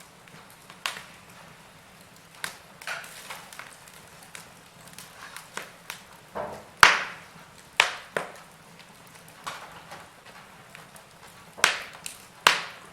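Wood fire crackling in a fireplace: irregular sharp pops and snaps, the loudest about seven seconds in and twice near the end.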